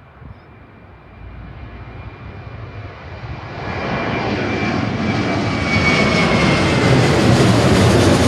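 Jet airliner's engines growing steadily louder as the aircraft draws near, a deep rumble with a thin high whine above it that rises slightly in pitch near the end.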